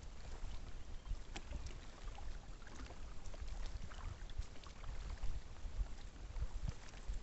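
Kayak on open water: scattered small splashes and knocks over a low rumble of wind on the microphone.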